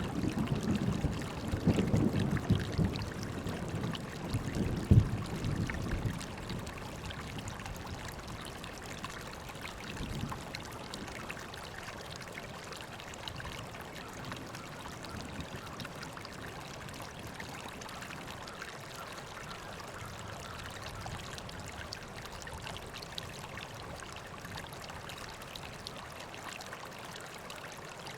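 River water flowing steadily. A deep rumble fades out over the first few seconds, the tail of a roll of thunder.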